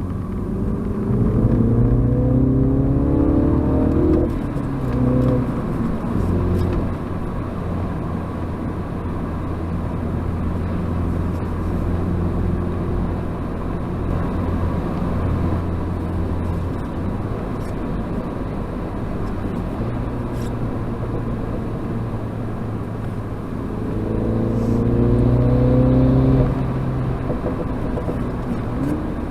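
Mini John Cooper Works F56's turbocharged four-cylinder engine pulling hard under acceleration, its pitch rising for about four seconds before a gear change. It then settles into a steadier drone with road noise. Near the end it rises again in a second pull that cuts off suddenly as the throttle lifts.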